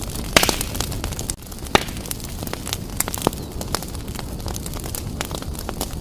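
Fireplace fire burning briskly: a steady low rumble of flames with frequent sharp crackles and pops, two louder pops about half a second in and just under two seconds in.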